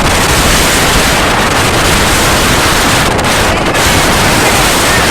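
Loud, steady wind rushing over the microphone.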